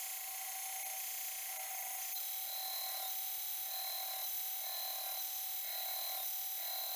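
Belt grinder flattening resin knife handle scales: a steady abrasive hiss with a high whine that comes in about two seconds in and a tone that pulses about every half second.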